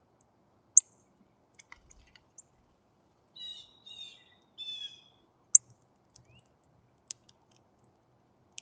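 A young bird gives three short, harsh pitched calls in a row in the middle, with sharp clicks at intervals of one to two seconds.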